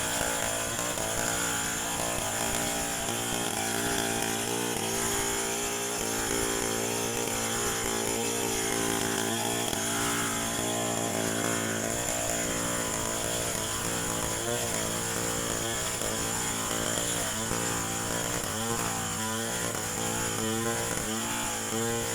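Two-stroke chainsaw running continuously, as in cutting timber, its engine pitch wavering more in the last few seconds.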